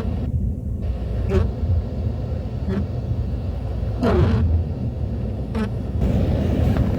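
Car driving, with a steady low rumble of engine and road noise. A short swish repeats about every one and a half seconds.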